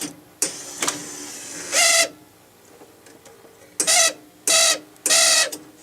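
Rock-ola 443 jukebox mechanism motor being tried after reattachment: a click and short noisy burst, then four short buzzing whirs as it starts and stops. It is not working properly.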